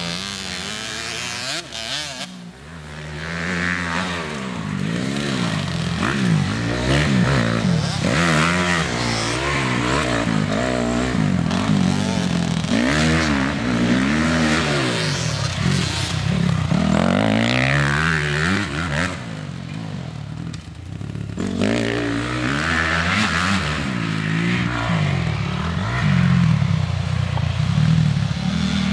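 Motocross dirt bike engine revving up and dropping back again and again, pitch climbing and falling with each burst of throttle. It fades briefly twice, near the start and about two-thirds of the way through.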